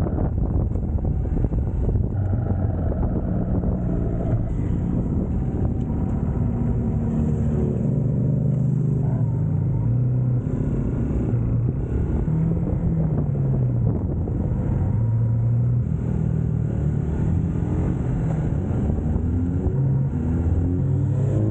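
UM Scrambler X motorcycle engine running under way, its pitch rising and falling as the throttle opens and closes, with wind rushing over the microphone.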